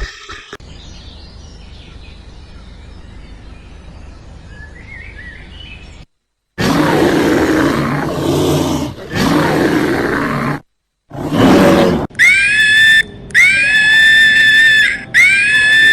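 Animal calls. After a quiet first half, a large animal gives three long, deep calls, then a series of high-pitched calls follows, each rising at the start and then holding for about a second.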